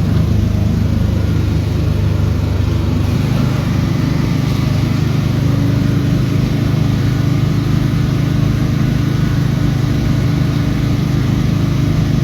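Steady low hum of a motor vehicle's engine in slow traffic, with a steady tone joining about halfway through.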